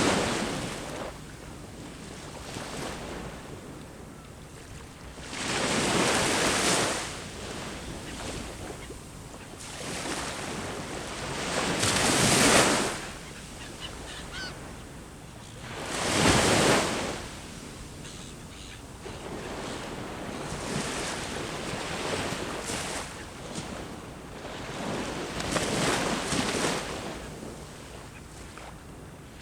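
Sea waves breaking on the shore, a surge of rushing water every four to six seconds that swells and falls away, with a steady wash between them.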